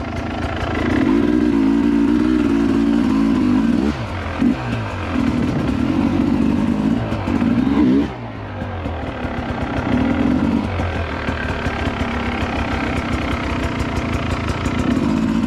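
Two-stroke dirt bike engine being ridden on a trail, running under throttle. The revs are cut and picked up again twice, about four and eight seconds in.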